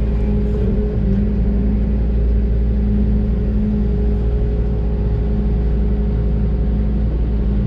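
Doosan DX600 excavator's diesel engine running steadily, heard from inside the cab as an even, loud drone.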